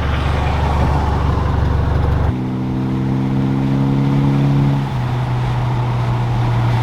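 1991 Eagle Talon's turbocharged 4G63 four-cylinder engine running steadily with road noise while driving; the engine note changes abruptly a little over two seconds in and again near five seconds, as with a gear change or change of throttle.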